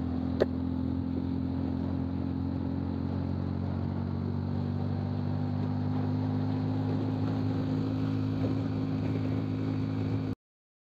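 Royal Enfield Classic 350 Reborn's fuel-injected 349 cc single-cylinder engine pulling hard in second gear at high speed, its exhaust note steady and low. There is one sharp click about half a second in, and the sound cuts off suddenly near the end.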